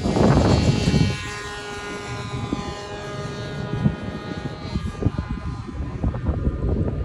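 O.S. model-airplane engine with its propeller buzzing at high revs as the RC plane flies, its pitch dropping slightly over the first few seconds. A loud low rumble covers the first second.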